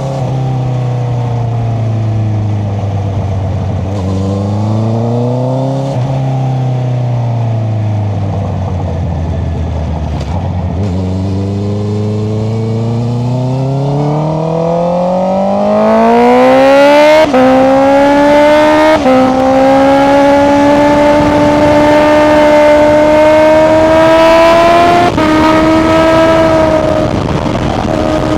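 Honda CBR650R inline-four through an Akrapovic exhaust, engine-braking with its pitch falling, with one brief rise, over the first ten seconds. It then accelerates hard, the pitch climbing and getting louder. Three quick upshifts follow as small steps down in pitch.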